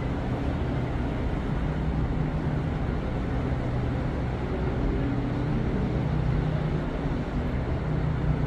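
Steady low engine rumble with a constant deep hum, even in level throughout.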